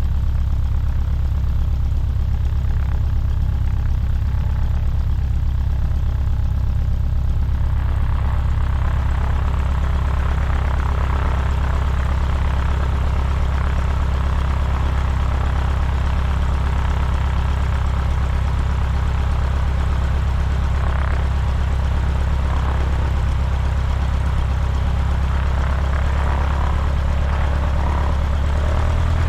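Cessna 150's four-cylinder piston engine and propeller running steadily at low power, with a deep, even drone. About eight seconds in, a brighter rushing noise joins it.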